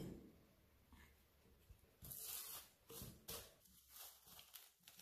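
Faint plastic cling film being pulled and torn: a hiss of film about two seconds in, then several short crinkles as it is stretched over a bowl.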